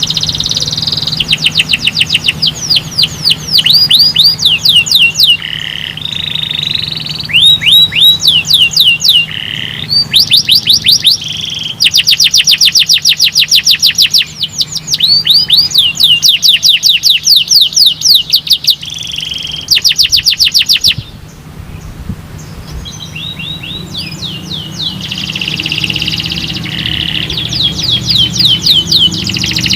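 Domestic canary singing: fast trills of repeated sweeping notes, one phrase after another, each phrase changing to a new note type every second or two, with a quieter stretch a little past the middle.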